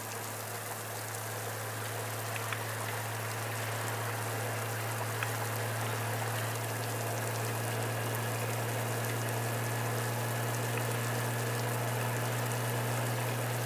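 Rain on a moving motorcycle: an even hiss of rain and wind with a few faint ticks of drops, over a steady low hum.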